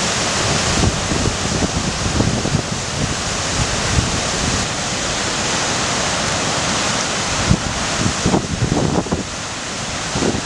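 River Esk in spate: a steady rush of fast, high floodwater. Wind buffets the microphone in gusts, most strongly about eight seconds in.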